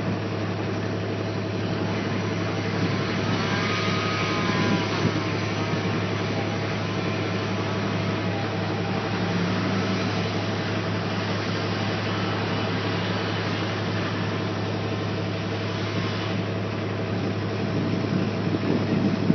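Tractor engine running steadily, a constant low drone that holds through.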